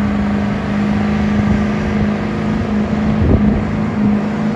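A car engine held at high, steady revs, as during a burnout or drift.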